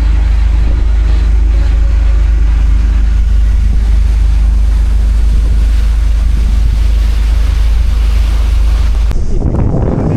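Cruise boat's engine running steadily under way, a loud low rumble with wind on the microphone. About nine seconds in the sound cuts abruptly to gustier wind noise.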